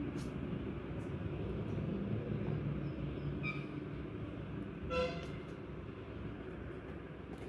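Steady low background rumble, with a faint short toot about three and a half seconds in and a louder short toot about five seconds in.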